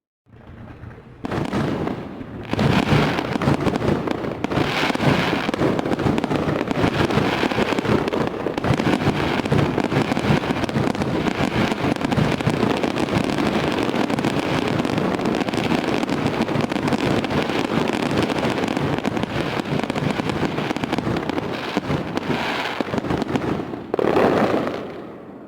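Fireworks going off in a dense, continuous barrage of rapid bangs and crackling, starting about a second in, with a louder burst near the end before it fades.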